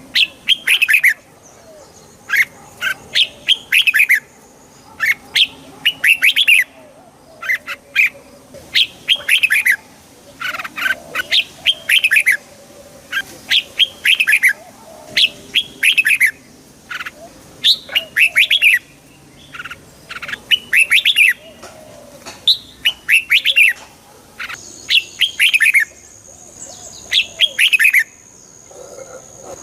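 Red-whiskered bulbuls singing: short, bright chirping phrases of quick falling notes, repeated every second or two.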